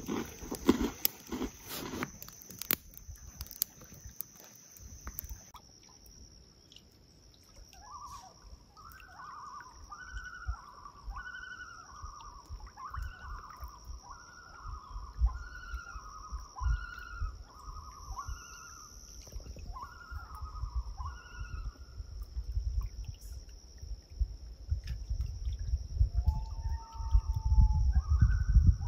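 A bird calling a long run of repeated two-note phrases, then a rising call near the end, over a steady high-pitched tone and a low wind rumble.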